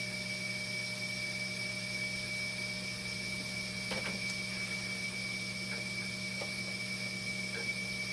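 Steady machinery hum with a constant high whine and hiss, with one sharp click about four seconds in and a few faint ticks after it, as parts are handled.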